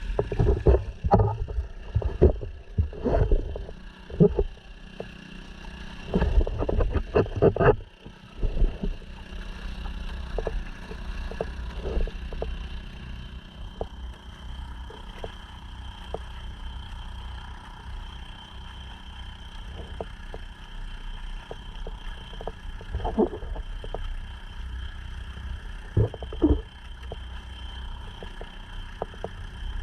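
Honda 2.3 hp four-stroke outboard running steadily, pushing a sea kayak: a throbbing hum with a high steady whine. For the first eight seconds or so, irregular loud rumbling thumps of wind or water against the camera cover it; after that the motor runs on alone.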